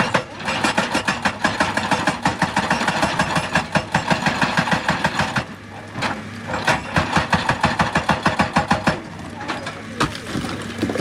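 Excavator-mounted hydraulic rock breaker hammering on stone, rapid even blows at several a second over the diesel engine's hum. It stops briefly about five and a half seconds in and then starts again.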